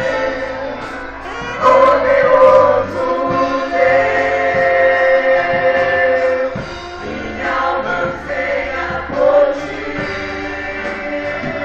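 A church vocal group singing a gospel song together, with held, sustained notes.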